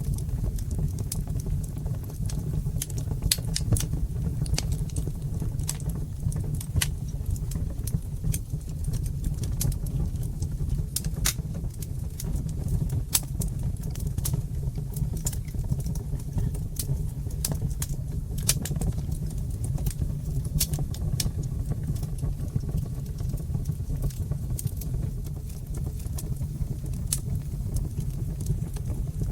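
Fire in a fireplace crackling: irregular sharp pops and snaps over a steady low rush of the flames.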